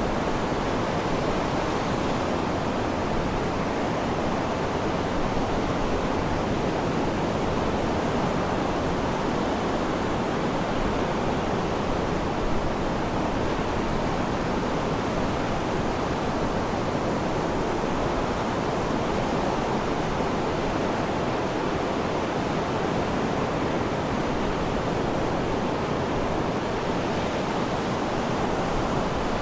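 Sea surf, a steady even rushing wash of waves.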